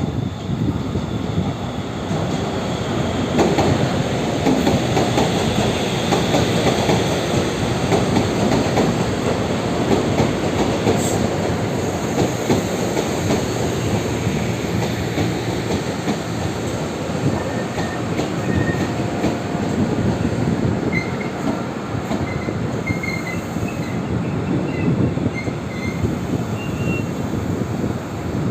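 Taiwan Railway local commuter electric train running into the station and slowing to a stop. Short, high brake and wheel squeals sound in its last third.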